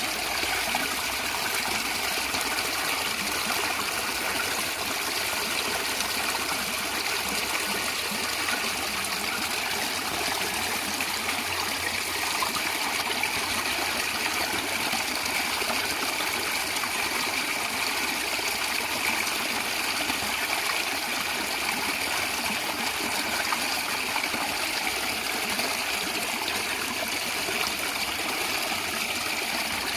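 A natural stream of water running and gurgling, a steady rushing with no breaks or changes.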